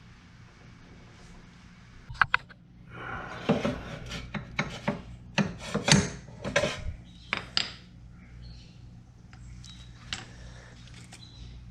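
Irregular rubbing and scraping strokes mixed with sharp clicks and knocks, as of hand work on a part. The strokes start about two seconds in and die away around eight seconds, over a steady low hum.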